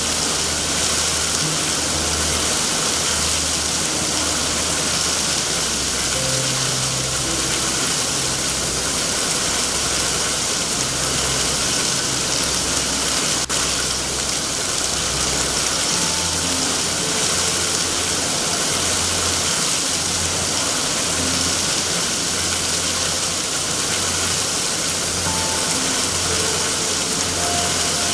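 Steady heavy rain hiss, with soft ambient music underneath: a low sustained drone that shifts pitch about halfway through and scattered quiet notes above it.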